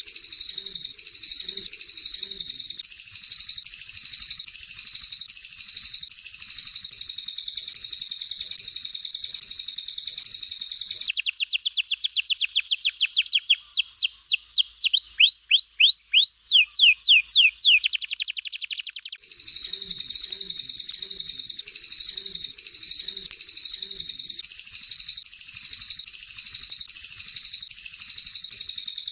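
Recorded songbird song of a canary and a cililin, played as a masteran tutoring track: dense, rapid high-pitched chattering song, broken about eleven seconds in by a run of fast, quickly repeated whistled notes, each sweeping downward in pitch, which lasts about eight seconds before the chattering song resumes.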